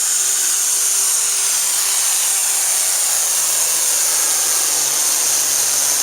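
Turbocharged diesel engine of a pulling tractor running flat out under load, with a loud, high turbo whine that slowly drops in pitch.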